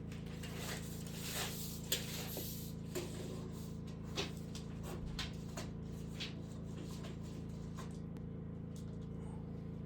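Light knocks and clicks of wood being handled during carpentry, a dozen or so scattered taps with the sharpest about two, three and four seconds in, over a steady low hum.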